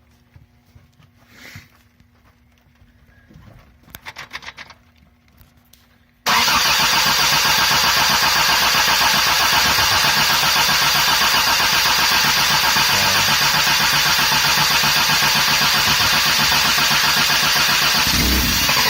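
1984 Toyota Tercel engine cranking on the starter motor for about twelve seconds, starting suddenly about six seconds in and stopping abruptly at the end. The engine does not run on its own: the mechanical fuel pump is still being cranked to fill the Weber carburettor with fuel.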